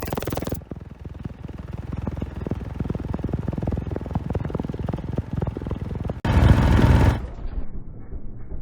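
Single-cylinder Briggs & Stratton lawnmower engine with a polycarbonate cylinder head firing and running, a rapid string of sharp pops. About six seconds in there is a louder rush of noise lasting about a second.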